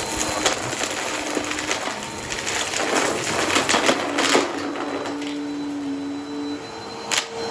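Upright vacuum cleaner running over a floor, its motor humming with a high whine, and a dense run of crackling clicks in the middle as it sucks up crunchy debris. A single sharp click comes near the end.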